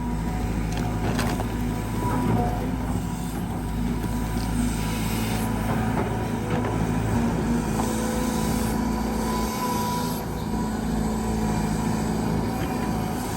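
Caterpillar 320GX excavator's C4.4 four-cylinder diesel engine and hydraulic pump working steadily under digging load, with a thin whine that comes and goes. A few short knocks sound over it.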